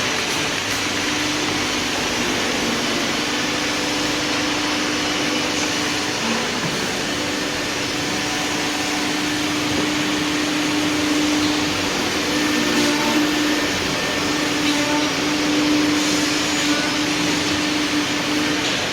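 A four-head CNC nesting router running: an even rushing noise with one steady hum-like tone that holds throughout.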